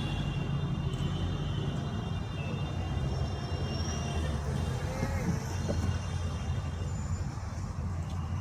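Steady low road and engine rumble inside the cabin of a Honda Elevate SUV on the move.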